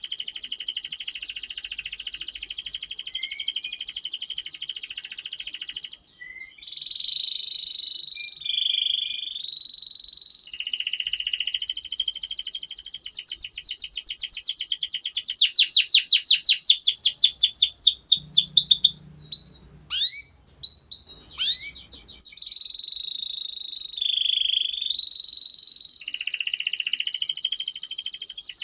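Domestic canary singing a long, continuous song of rolling trills and rapid repeated notes. The loudest part is a fast trill in the middle. A few downward-sweeping notes with short breaks follow, and then the trilling resumes.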